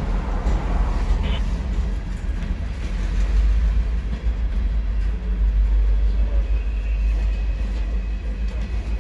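Freight train rolling past close by: a steady heavy rumble of wheels on rail, with a brief high-pitched squeal about a second in.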